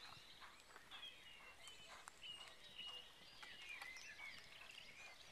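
Faint birdsong, short chirps and whistles, over a quiet outdoor background.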